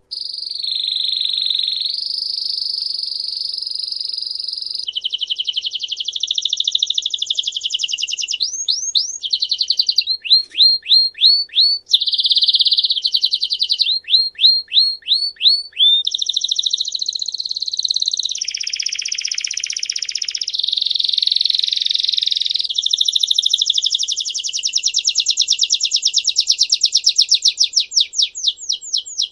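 A songbird singing a long, unbroken song of rapid trills and repeated downward-sweeping notes, switching to a new phrase every second or few. It starts abruptly.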